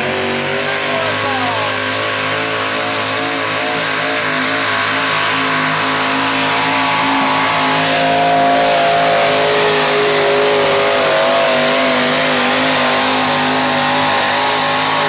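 Competition pickup truck engine running at high revs under heavy load as it drags a weight sled down the pull track. The pitch wavers and climbs a little about halfway through.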